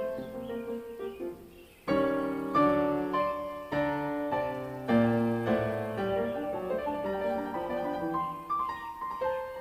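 Background piano music, a quiet passage that fades out and gives way, about two seconds in, to a louder run of piano chords and notes.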